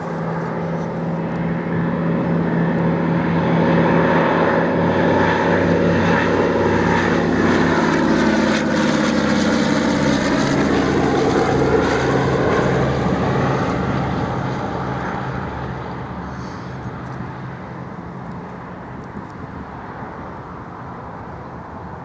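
Douglas DC-3's twin Pratt & Whitney R-1830 radial engines running as the propeller airliner comes in on its landing pass: the sound builds, passes close with a drop in pitch, then fades away.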